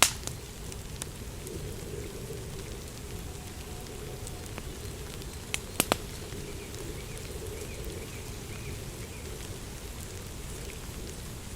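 Steady rain, with a few sharp clicks on top: one right at the start and a small cluster about six seconds in.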